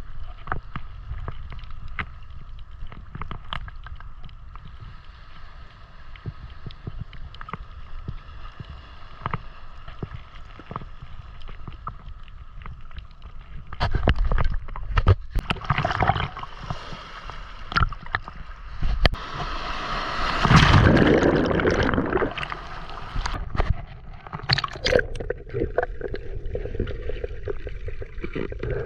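Water sloshing and splashing, with scattered clicks and knocks; it gets louder about halfway through and is loudest around two-thirds of the way in.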